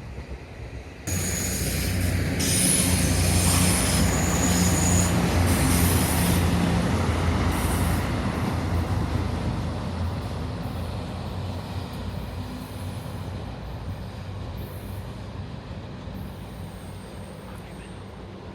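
Taiwan Railway DR1000 diesel railcar passing on the S-curve: a steady low engine drone, with the wheels squealing high against the rails in the first few seconds. It starts suddenly about a second in and slowly fades away.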